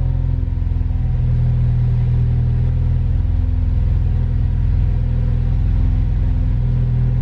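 Ford Focus RS's turbocharged 2.3-litre four-cylinder engine idling steadily.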